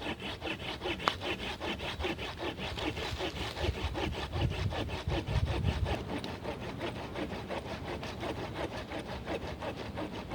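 Hand saw cutting through a thick log section with steady, rapid back-and-forth strokes, several a second.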